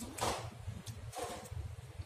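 Close-up mouth sounds of a person chewing food, an irregular low smacking, with two short louder mouth noises about a quarter second and a second in, and a faint light click.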